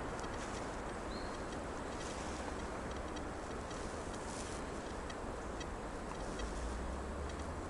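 Steady rush of distant road traffic, with a low rumble swelling about six and a half seconds in, and faint rapid ticking above it.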